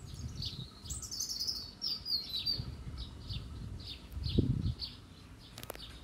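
Small birds chirping. A quick run of falling chirps comes about a second in, then a regular series of short high chirps, about three a second, over a low rumble. A soft thump sounds just after four seconds.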